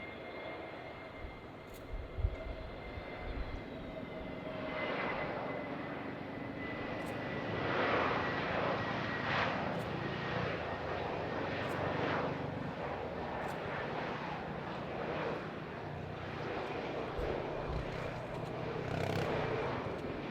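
Jet airliner's engines: a steady whine that dips slightly in pitch, then a broad roar that swells from about four seconds in and stays loud.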